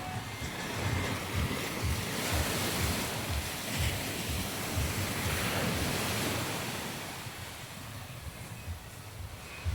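Surf washing onto a sandy beach, with gusts of wind buffeting the microphone. The wash is fuller in the first half and eases off later.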